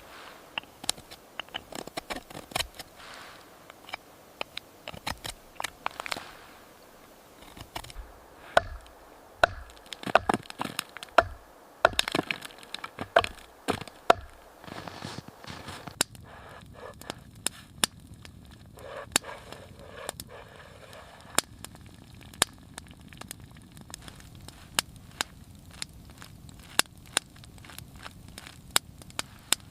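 Wood cracking and crunching in dense, irregular cracks and knocks for about the first half. Then a wood fire crackling: scattered sharp pops over a steady low hiss.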